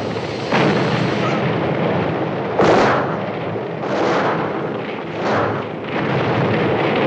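Spilled gasoline igniting and blowing up at a filling station: a string of heavy blasts over a continuous rush of burning, the loudest blast about two and a half seconds in.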